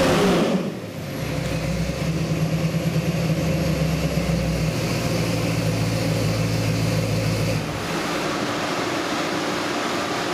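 Ford 302 V8 crate engine on a dyno stand, its revs dropping off from a pull and settling into a steady idle.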